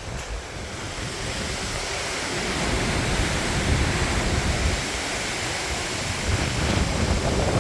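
Strong gusty wind from Tropical Storm Debby rushing steadily, with gusts buffeting the microphone in an uneven low rumble; it grows gradually louder.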